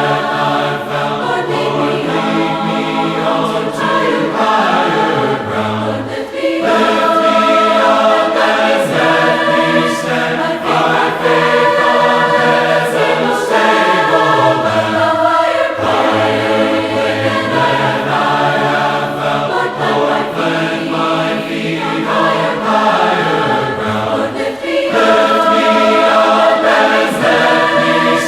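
Choir singing a hymn in several parts, with sustained phrases and brief breaks between lines.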